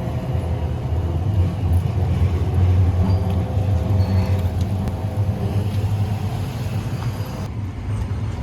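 Steady, loud low rumble of a motor vehicle, with a faint steady hum over it.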